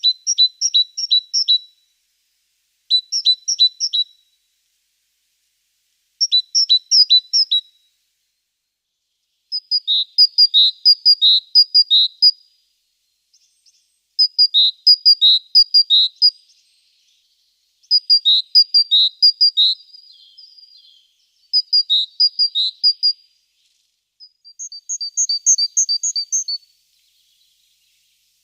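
Great tit singing: repeated phrases of quick two-pitch see-saw notes, each phrase a second or two long, with short pauses between.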